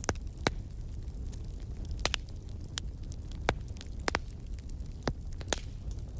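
Wood fire crackling in a fireplace: a steady low rumble with sharp, irregular pops and snaps, the loudest about half a second in, and others near two, three and a half and five and a half seconds.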